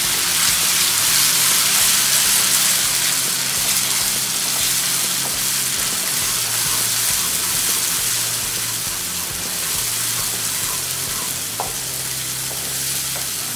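Ground coconut-onion-coriander masala paste frying in hot oil in a non-stick kadhai, stirred with a wooden spatula: a steady sizzling hiss that eases slightly toward the end. The wet paste has just gone into the oil and is being roasted until the oil separates.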